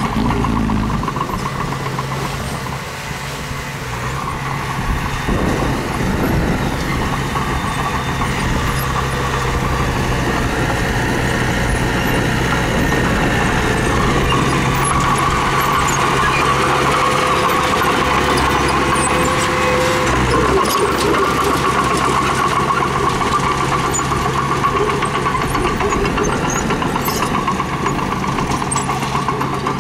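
Diesel engine of a mini bulldozer running steadily while it works, its low note shifting about twenty seconds in.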